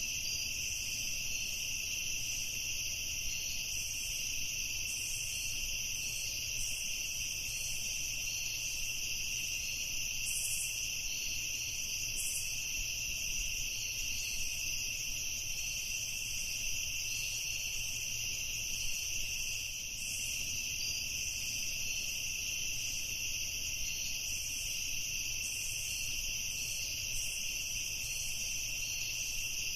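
Evening chorus of crickets: a steady, unbroken high-pitched trilling.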